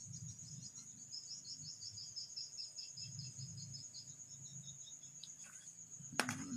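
Crickets chirping in fast pulsed trills over a steady high-pitched tone, with a sharp click near the end.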